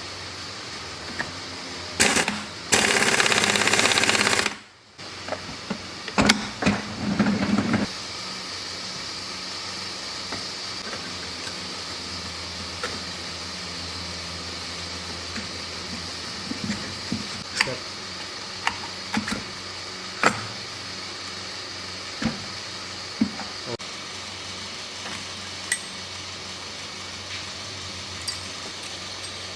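Handling of small metal engine parts and tools during motorcycle engine assembly: scattered sharp metallic clicks and knocks. A cluster of clatter comes a few seconds in. Before it, a loud burst of rushing noise lasts about two seconds and cuts off suddenly.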